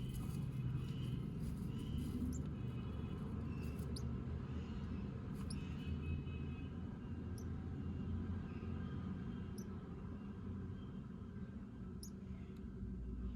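Faint, high-pitched cheeping of house sparrow nestlings in the nest, in short scattered calls over a steady low rumble.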